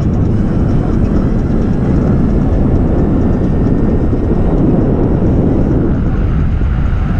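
Steady, loud low rumble from riding an electric skateboard, wind on the microphone mixed with the wheels rolling over the trail.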